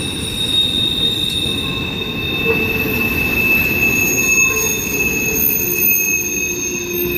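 Freight train rolling through a grade crossing: a steady heavy rumble of cars on the rails with steady high-pitched wheel squeal ringing over it.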